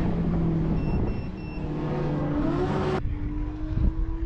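Car engines running and revving, with an abrupt switch to a different engine sound about three seconds in. Three short high beeps about a second in.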